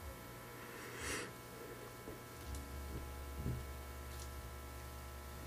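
Quiet room tone with a steady low hum and a soft breath-like rustle about a second in.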